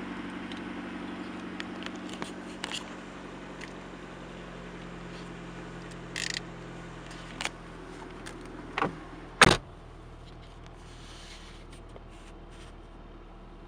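Mercedes-Benz W202 C180's four-cylinder petrol engine idling steadily just after a cold start in frost. A few clicks and rattles come near the middle, then a single loud thump about nine and a half seconds in.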